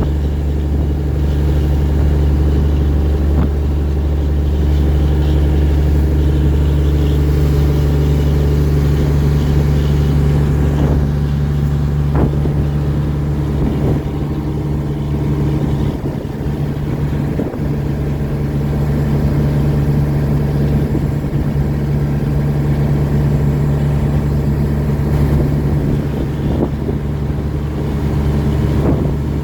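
A fishing boat's diesel engine running steadily, a low, even hum, with a few faint knocks about 11, 12 and 17 seconds in.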